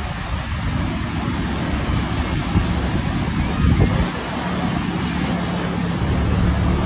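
Steady noise of rough sea surf with wind on the microphone.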